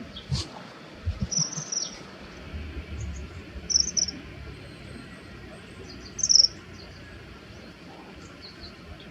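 Common kingfishers giving short, shrill, high-pitched calls in scattered bursts, the loudest a little over six seconds in: threat calls between rival males in a territorial dispute. A few low thumps early on.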